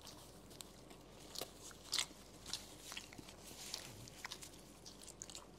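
Close-up eating sounds: chewing and biting into food, heard as a run of irregular short clicks, loudest about two seconds in.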